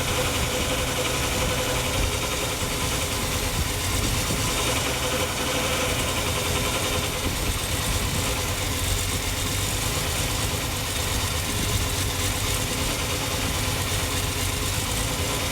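Ford 300 inline-six engine running steadily. It is freshly rebuilt and will not idle.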